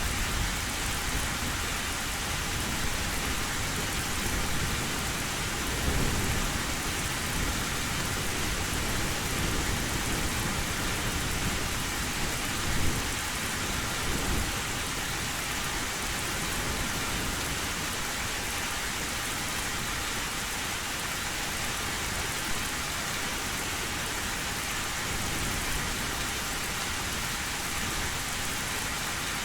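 Heavy rain falling steadily on an old tin roof, a dense even hiss, with low rolls of distant thunder swelling a couple of times.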